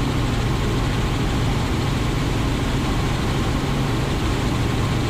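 Robinson R44 Raven II helicopter in cruise flight heard from inside the cockpit: a steady drone of its six-cylinder Lycoming engine and rotors, with a strong low hum and an even rush of noise above it.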